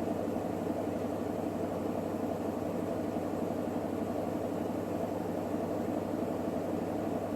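Electrolux WD41A84160 washing machine spinning its drum at a steady speed during the final spin, a constant motor hum with a whooshing rush.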